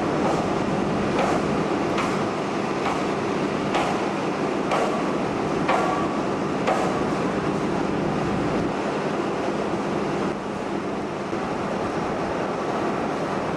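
Sharp hammer strikes, about one a second, eight in all, stopping after about seven seconds, over a steady engine drone from construction machinery.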